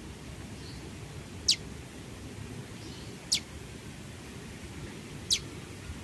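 Jingjing batu (black-winged flycatcher-shrike) calling: three brief, high calls that each drop sharply in pitch, about two seconds apart.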